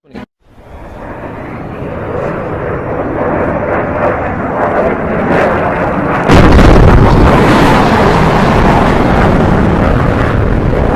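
Sonic boom from a jet flying faster than sound: a rushing noise builds up, then about six seconds in a sudden, much louder boom breaks in and rumbles on heavily.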